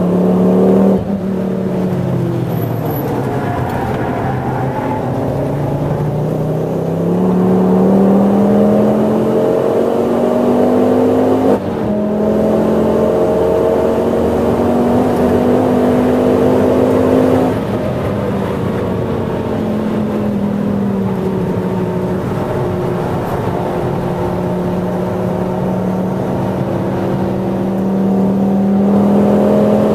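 In-cabin sound of a Ford Focus ST's turbocharged five-cylinder engine, tuned to over 420 bhp, pulling hard with its pitch climbing and a brief break about twelve seconds in. A few seconds later it eases off and falls in pitch, then climbs again under power.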